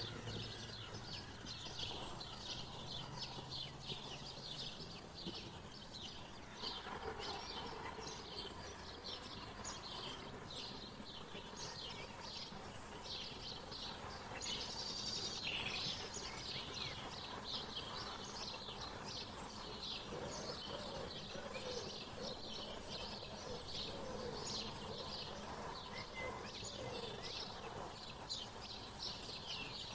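Songbirds chirping: a steady stream of short, high chirps, several a second, with a few lower sliding calls mixed in over an even outdoor background hiss.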